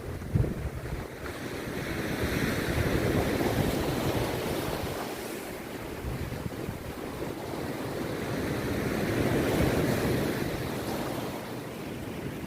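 Rough sea surf breaking on the beach: two waves surge up and die away in turn, with wind buffeting the microphone.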